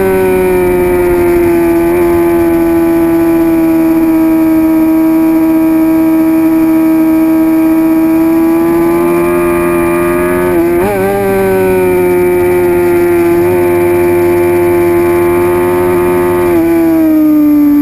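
2006 Suzuki GSX-R750's inline-four engine running hard at high revs, its note held nearly steady for a long stretch with a brief wobble about eleven seconds in, then falling in pitch near the end as the bike slows.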